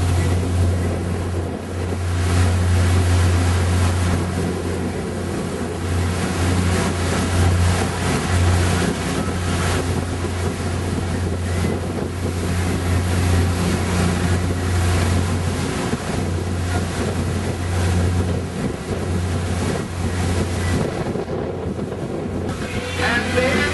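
Boat engine running steadily with a low hum, under a rush of wind on the microphone and water noise.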